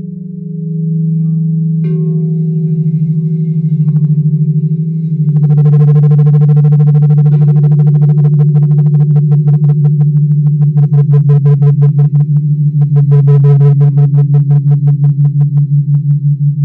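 Crystal singing bowls ringing in long, steady low tones that waver slightly in loudness. About five seconds in a brighter tone full of overtones joins and pulses rapidly, swelling twice before fading near the end.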